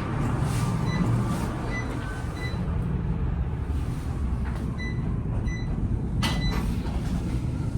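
Low, steady vehicle engine rumble, with short high-pitched tones now and then.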